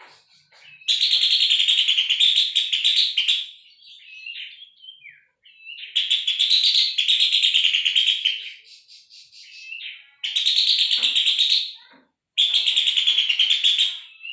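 Pelanduk semak babbler singing: four loud bouts of rapid chattering notes, each about two seconds long, with softer scattered calls between them.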